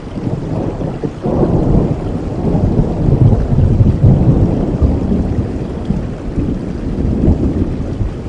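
Steady rainfall with a long roll of thunder that builds about a second in, is loudest near the middle, and slowly dies away.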